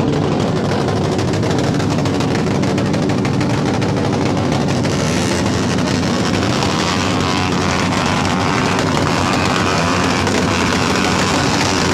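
Loud aftermarket vehicle exhausts being revved hard and held in a continuous din during an exhaust-sound showoff.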